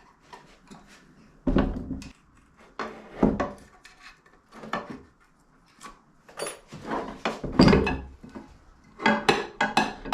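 Split motorcycle engine crankcase and its parts being handled on a workbench: a series of separate clunks, knocks and metal clatters.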